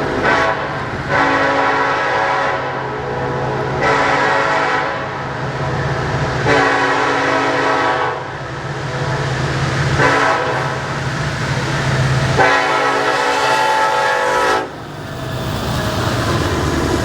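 Norfolk Southern diesel locomotive horn sounding six separate blasts of varying length, the longest about two seconds in and near the end, over the steady low drone of the locomotive passing.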